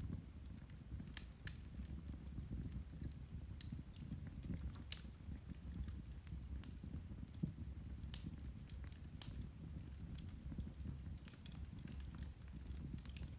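Irish turf (peat) fire crackling: scattered sharp pops and ticks, the loudest about five seconds in, over a low steady rumble.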